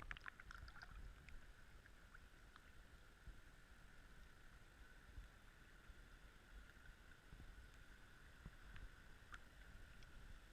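Near silence: faint muffled underwater ambience heard through a GoPro's waterproof housing, with a low rumble, a thin steady whine and a quick cluster of clicks at the start, then a few scattered ticks.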